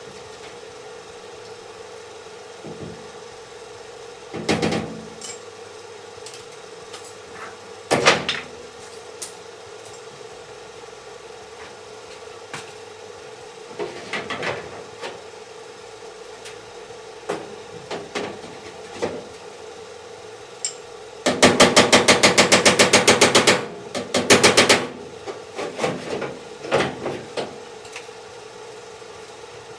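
Sharp metal knocks and taps from bodywork on sheet metal, with a rapid even run of strikes at about ten a second lasting a couple of seconds about two-thirds of the way through. A steady hum runs underneath.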